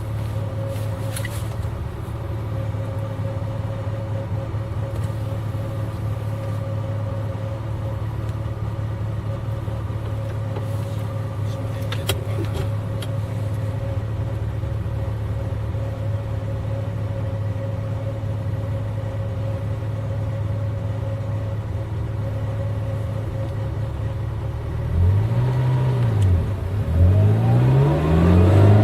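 V8 car engine running at steady revs, then about 25 seconds in the revs swing up and down twice and climb again near the end.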